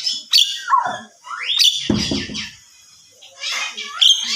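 Javan myna (jalak kebo) calling: a run of shrill whistles and chattering notes, with a falling whistle just under a second in, a rising sweep into a harsh, rough squawk around two seconds, a short pause, and more chatter near the end.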